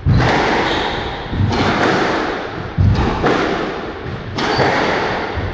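Squash rally: the ball is struck by racquets and hits the court walls, about five sharp thuds roughly a second or so apart, each echoing in the court.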